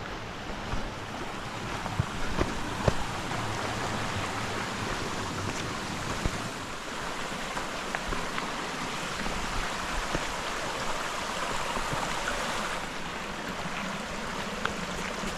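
Mountain creek running, a steady rush of water, with a few short sharp knocks about two to three seconds in.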